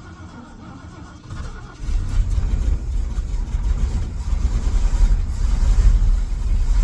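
Carbureted engine of a Ford F-350 dump truck starting up and running, with a low rumble that gets much louder about two seconds in and then holds steady.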